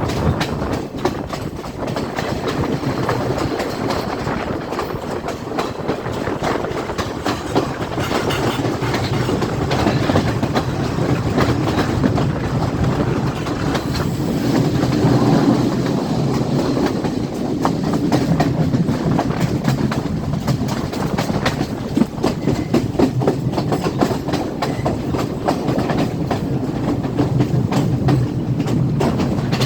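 Passenger train running along the track, its wheels clattering over the rails with a continuous rattle of many sharp clicks over a steady low rumble.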